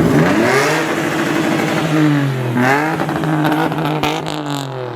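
A car engine revved hard in neutral, as if building up to a clutch drop. The pitch jumps up at the start, falls back and holds, then rises and falls again about halfway through.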